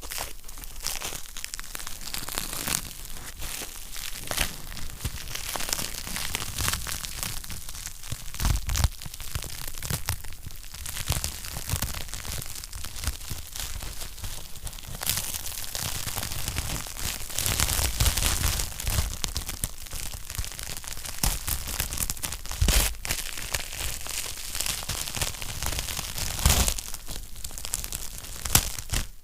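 Wood fire burning in a fireplace, crackling continuously with dense small snaps and a few louder pops scattered through.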